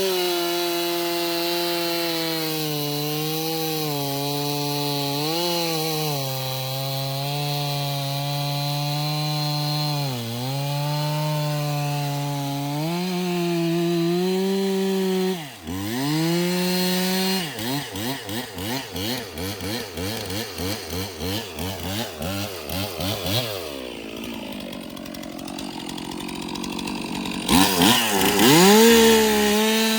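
Two-stroke chainsaw running at high revs, its pitch sagging again and again as it bites into a log. About halfway it drops off sharply, then pulses quickly and unevenly for several seconds before coming back up to full revs near the end.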